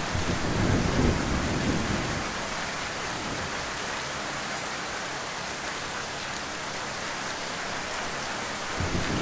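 Heavy rain falling steadily, with a low rumble in the first two seconds that returns near the end.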